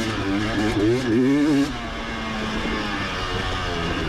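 Motocross bike engine heard on board, revving under throttle with its pitch wavering and climbing, then dropping as the throttle closes about halfway through, after which it runs lower and steadier.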